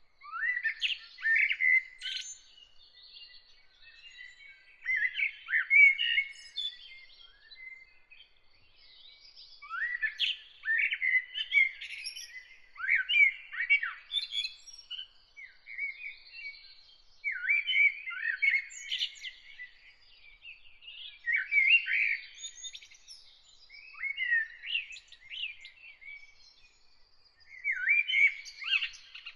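A songbird singing a run of quick, varied whistled phrases, each a second or two long and a few seconds apart, with fainter bird chirps behind.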